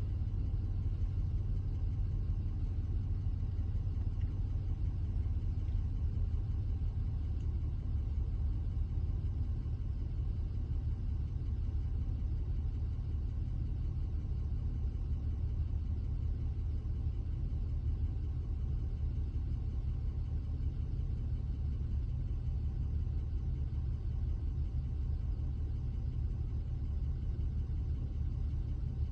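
Car engine idling while stopped, heard from inside the cabin as a steady low rumble.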